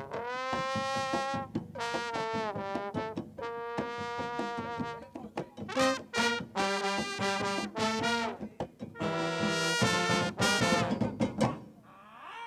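A brass section of a street conga band plays long held notes in phrases, some scooping up into pitch, over percussion. The sound dips away briefly near the end.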